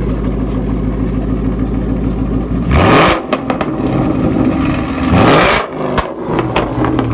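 2017 Ford Mustang GT's 5.0-litre V8 through an Armytrix valved cat-back exhaust, idling and then revved twice, about three and five seconds in. Each rev rises and drops back, followed by a few sharp pops as it settles back to idle; really loud.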